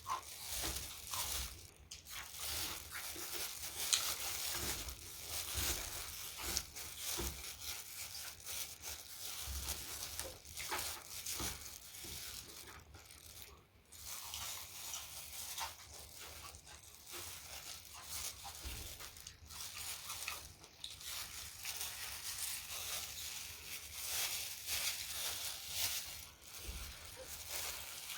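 Close-miked eating sounds: continuous wet, crackling chewing with a short break about halfway through.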